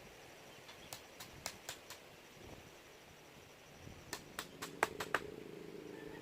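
Two quick runs of sharp knocks or clicks, about five in the first, then six or seven more a few seconds later, each run at roughly four to five a second. A low steady hum comes in near the end.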